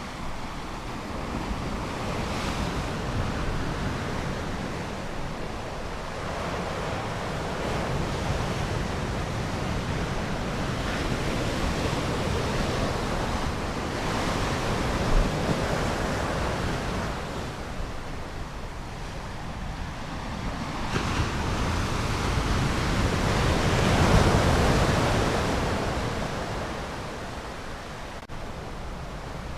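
Ocean surf: waves breaking and washing in, the rushing noise swelling and ebbing every several seconds, with the largest wave about four-fifths of the way through.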